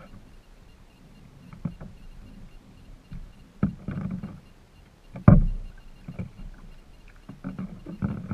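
Paddling a kayak: uneven paddle strokes in the water with knocks against the boat, the loudest a sharp thump about five seconds in.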